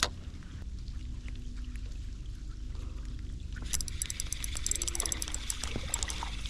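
A sharp knock, then a steady low rumble; about four seconds in, a stretch of crackling, splashing water sets in and runs on.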